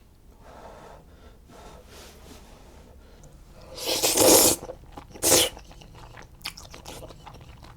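A person slurping black bean noodles (jjajangmyeon): a long loud slurp about four seconds in and a shorter one about a second later, with soft rustling of the noodles before.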